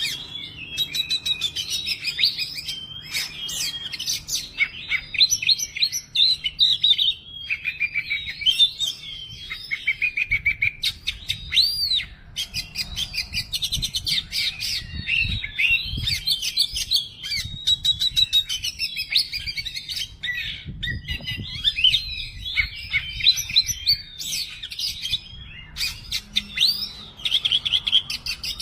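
Oriental magpie-robin (kacer) singing without pause: a fast, varied stream of whistles, trills and chattering phrases. It is running through its repertoire of learned song material.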